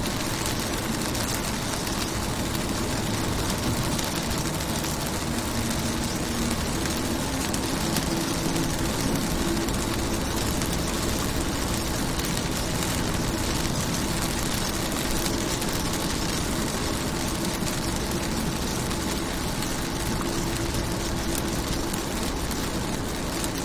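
Steady rain falling on a car's windows and body, an even hiss without separate drops standing out, over a faint low hum whose pitch shifts now and then.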